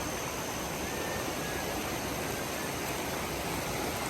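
Steady rushing of river water, an even hiss.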